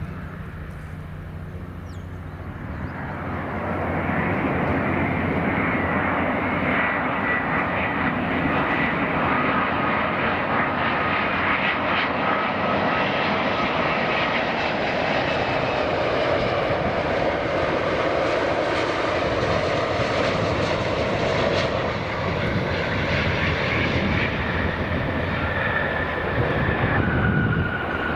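Jet airliner's engines at high power, swelling about three seconds in to a loud steady rush with a faint whine over it.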